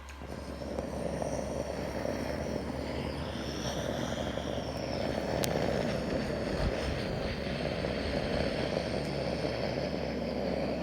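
Jet airliner engines: a steady rushing noise with a faint high whine that wavers slowly in pitch.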